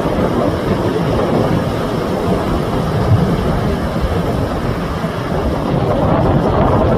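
Wind buffeting the microphone as a loud, steady low rumble at the ocean shore, with surf washing beneath it.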